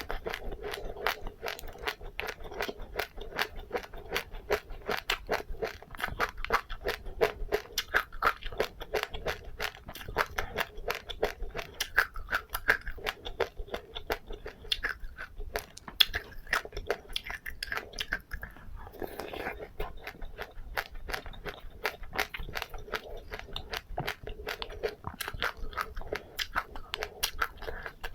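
A person chewing crunchy seeds with passion fruit pulp, close to the microphone: rapid sharp crunches, several a second, without a break.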